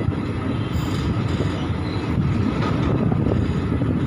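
Passenger train coaches running at speed, heard from an open door of the train: a steady rumble of wheels on the rails.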